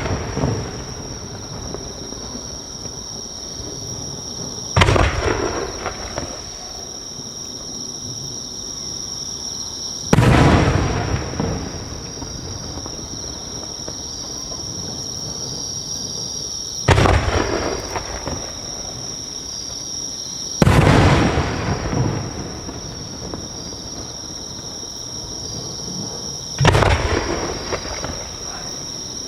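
No. 5 (about 15 cm) aerial firework shells bursting one at a time, five in all, several seconds apart. Each is a sharp boom that rumbles away over a second or two.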